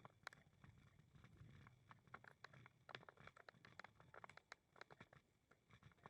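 Faint footsteps of a walk, heard as irregular light clicks and taps, several a second, over a low rumble.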